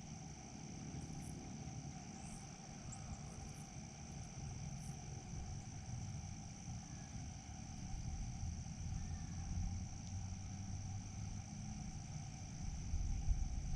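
A chorus of insects keeps up one steady, unbroken high trill over a low rumble, with a few short high chirps in the first five seconds.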